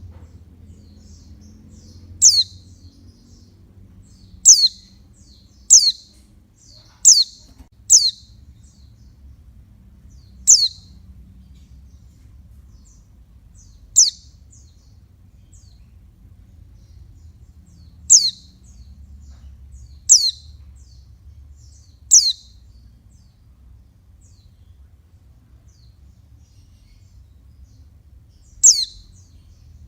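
Female pleci (white-eye, Zosterops) giving about eleven short, high calls, each a quick downward-sliding chirp, spaced irregularly a second to several seconds apart. This is the female call that is played to get male white-eyes singing.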